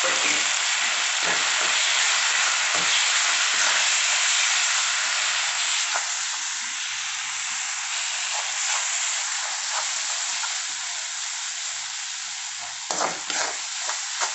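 Onion-tomato masala with freshly added ground spices sizzling steadily in mustard oil in a kadhai, fried (bhuna) until the oil separates; the sizzle eases a little partway through. Near the end a steel perforated skimmer scrapes and stirs against the pan in quick strokes, about three a second.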